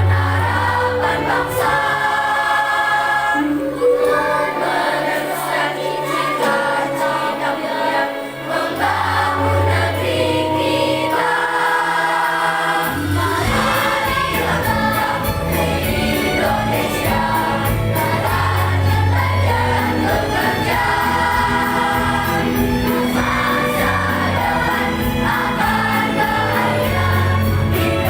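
Primary-school children's choir singing in unison over an instrumental accompaniment with a bass line; about halfway through, the accompaniment fills out with a steady beat.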